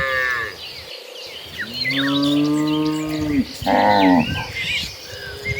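Cattle mooing: a call that fades out within the first half second, then a long low moo of about two seconds, then a shorter, higher moo right after it. Small birds chirp faintly behind the calls.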